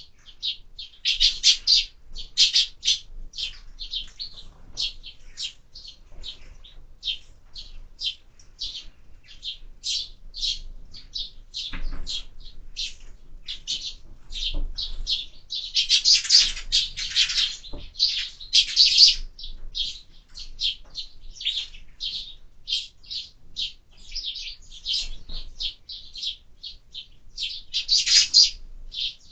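Sparrows chirping at a bird feeder: a steady run of short chirps, several a second, thickening into louder clusters of chirping a few times.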